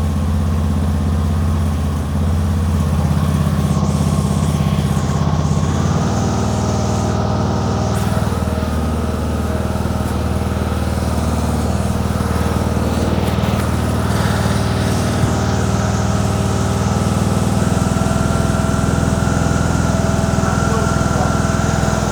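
Tractor engine running steadily, its note changing slightly about six seconds in.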